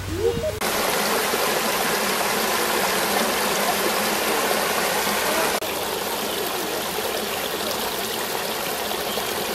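Creek water running, a steady rush that starts suddenly about half a second in and drops slightly in level a little past halfway.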